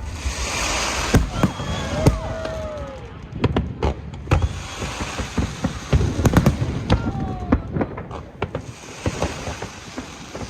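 Aerial fireworks display: repeated sharp bangs of bursting shells, with stretches of crackling from glitter effects and a few falling whistles.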